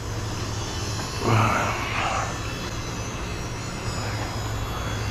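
Husqvarna 445 two-stroke chainsaw engine running steadily at a high idle that won't come down, with a brief swell about a second and a half in; the owner suspects the carburettor.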